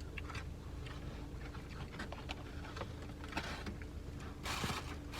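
Steady low hum and rumble inside a car cabin, with scattered small clicks and rustles; a louder burst of rustling starts near the end.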